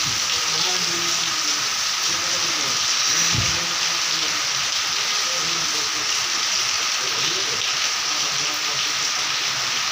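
Heavy rain falling steadily as a dense, even hiss, with water streaming off the edges of tin roofs. A single low thump about three and a half seconds in.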